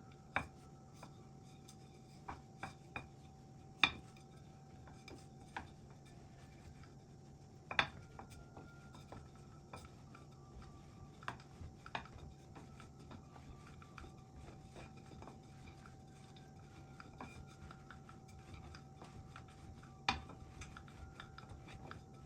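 Scattered clinks and knocks of dishes and kitchen utensils being handled during food preparation, sharp and separate, with the loudest about four and eight seconds in. A faint steady hum runs underneath.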